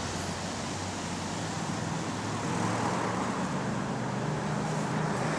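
Bus engine running with road noise, heard on board; the bus is one with an exhaust leak. The engine note rises a little about halfway through.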